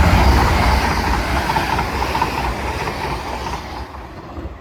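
Class 802 passenger train passing through the station at speed: a loud rush of wheel and rail noise that is loudest at first and fades away over a few seconds.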